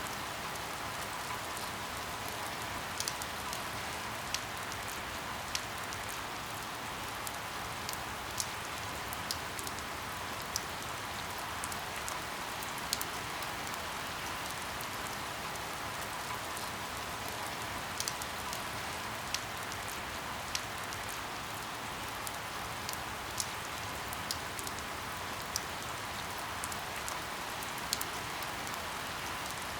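Steady rain falling on a window: an even hiss with scattered sharp drop ticks on the glass every second or so.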